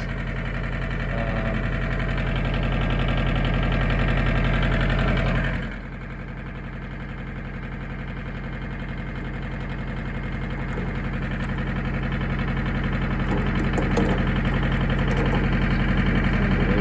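1981 Isuzu Pup's diesel engine idling steadily with the fuel filter bypassed. It gets abruptly quieter about five and a half seconds in, then slowly louder again.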